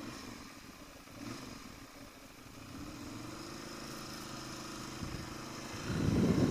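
2013 Ducati Monster 696's air-cooled L-twin running through its stock exhaust pipes. It holds a steady note from about three seconds in, and a louder, uneven low rumble comes in near the end.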